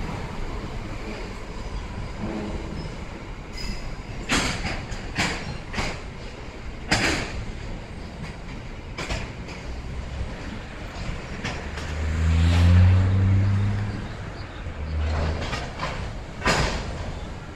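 Loaded coal train's hopper wagons rolling past: a steady rumble of wheels on rail, with sharp clanks and knocks from the wagons, several in the first half and one near the end. Around the middle a deep engine drone swells and fades, the loudest sound.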